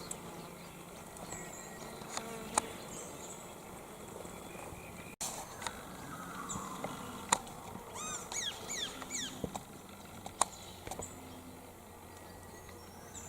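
Bush ambience with flies buzzing close by and scattered small clicks. About eight seconds in, a bird gives a quick run of short notes, each sweeping downward in pitch.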